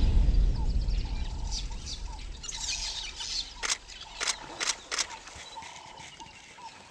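Wild birds chirping and calling in short repeated notes, while a tail of music fades out over the first few seconds. Four sharp clicks fall a little past the middle.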